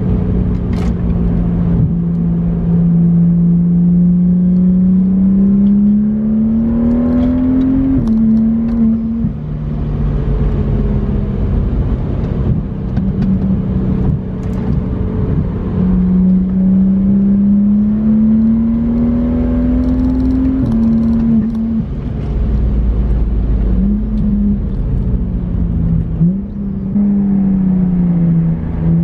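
BMW 135i's N55 turbocharged inline-six, heard from inside the cabin as the car drives. The engine note climbs slowly and drops sharply at a gear change about eight seconds in, then climbs again to a second gear change about twenty seconds in. Two short rises in revs come near the end, over steady road noise.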